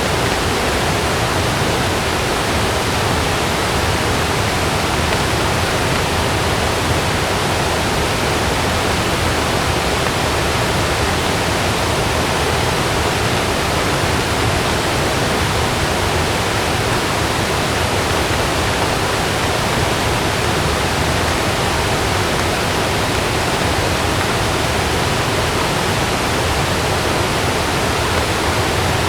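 Heavy rain, a steady even hiss with no thunder or separate impacts heard.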